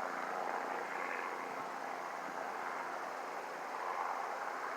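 Helicopter circling overhead: a steady drone of rotor and engine.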